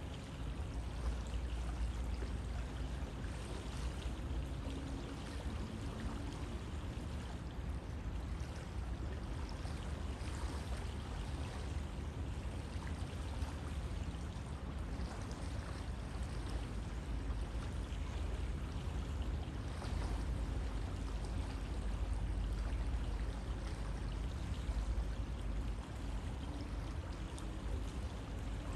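River water flowing steadily, a continuous rushing and splashing with no change in level.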